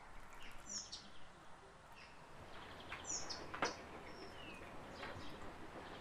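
Birds chirping faintly, a few short high chirps over a quiet background, with scattered sharp clicks, the loudest a little past halfway.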